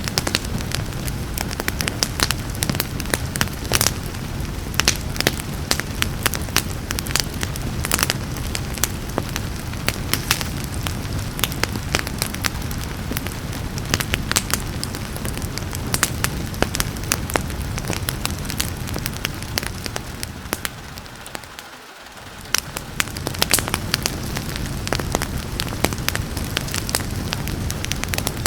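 Wood fire crackling, with frequent sharp pops and snaps over a steady rushing hiss of fire and rain. A little over two-thirds through, the whole sound briefly fades down and swells back up.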